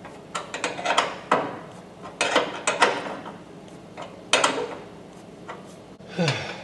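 Hand ratchet wrench clicking in short bursts while loosening a bolt on the inside of a car fender, with quiet gaps between the strokes.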